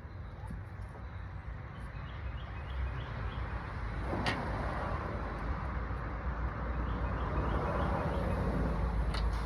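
A vehicle engine running, growing louder from about four seconds in, with one sharp click at about the same moment. Faint bird chirps are also heard.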